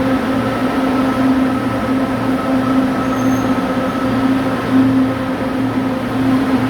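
LRT Line 2 electric train running, a steady drone with a pulsing low hum and a faint high whine.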